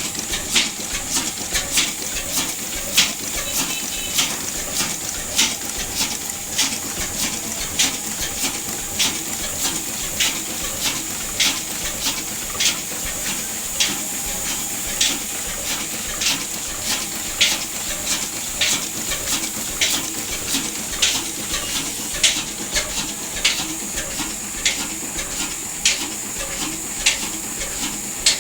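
Large stationary diesel engine running slowly and steadily, with a sharp knock about twice a second over a constant hiss.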